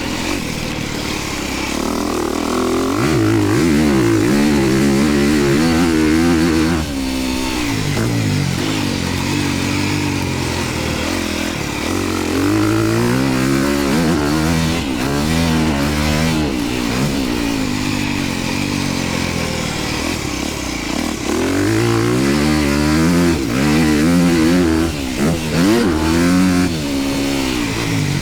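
Dirt bike engine ridden hard on a motocross track, its pitch climbing and falling again and again as the throttle is worked and the gears are shifted. The throttle is chopped briefly about seven seconds in and several times near the end.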